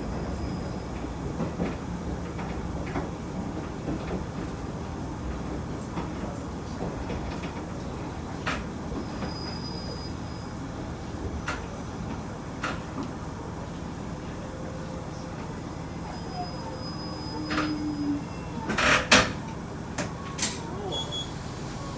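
Diesel railcar running along the track: a steady low rumble with scattered sharp clicks and knocks from the wheels and rails, and a louder clatter about 19 seconds in.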